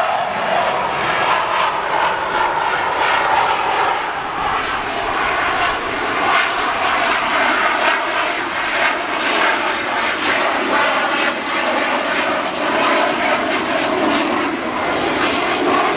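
F/A-18 Hornet's twin jet engines running during a slow, low flyby: a loud, steady jet roar with a crackling rasp in its upper range that holds throughout.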